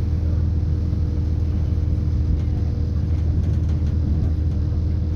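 Running noise heard inside a moving British Rail Class 170 Turbostar diesel multiple unit: a steady low rumble from the wheels and the underfloor MTU diesel engine, with a couple of steady humming tones over it.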